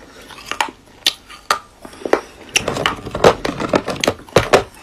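Crunching of chalk and clay pieces: a series of irregular sharp snaps and cracks, coming thicker and faster in the second half.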